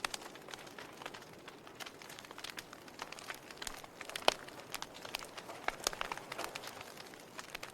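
Wood logs burning in a fireplace, crackling with irregular sharp pops and snaps over a soft hiss, one louder pop about four seconds in.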